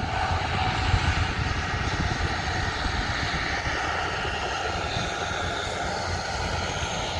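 An airliner's jet engines running, a steady low rumble under a hiss.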